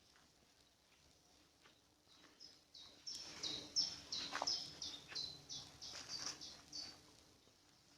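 Songbird singing one long phrase of rapid, repeated high notes that starts about two seconds in and runs for about five seconds, with a second, lower whistle briefly under it midway.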